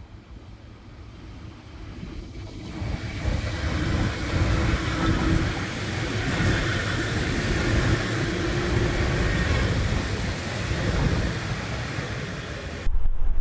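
A train passing on the line, growing louder over the first few seconds and staying loud. It is cut off suddenly near the end, where wind buffeting the microphone takes over.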